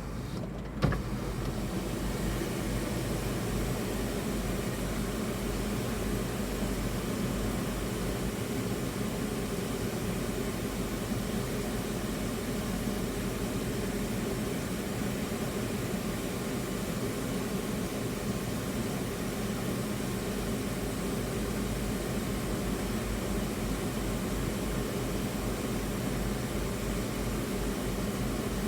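Steady rushing of a river in flood, swollen after a typhoon. There is a short bump about a second in.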